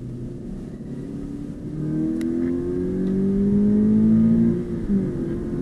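2020 Subaru BRZ's 2.0-litre flat-four engine accelerating, heard from inside the cabin. Its pitch and loudness rise steadily for about three seconds, then drop back near the end.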